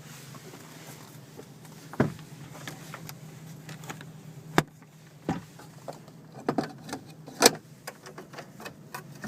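Cabin switches and controls of a 1996 Chevrolet Astro van being worked: a string of sharp clicks and knocks, thickest and loudest a little past the middle, over a low steady hum.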